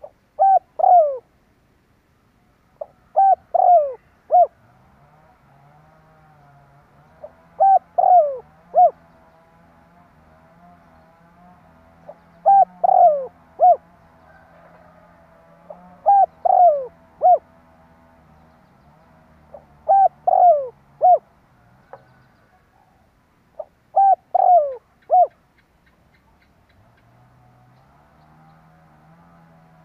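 Spotted dove cooing: a short phrase of three or four falling coos, repeated seven times about every four seconds. This is the territorial call used as a decoy to draw wild doves.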